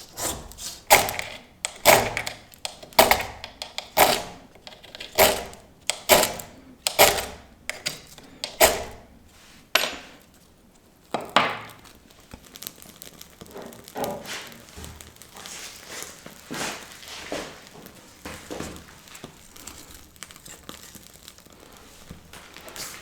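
Firewood being chopped: a series of heavy wooden thunks about a second apart, the last a little later on its own, then softer rustling and crackling.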